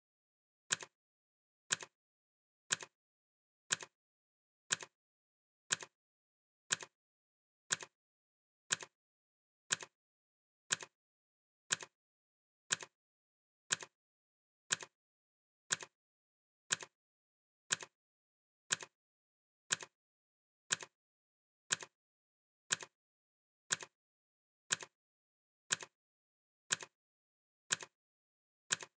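Clock ticking sound effect: short, sharp ticks, one each second, evenly spaced.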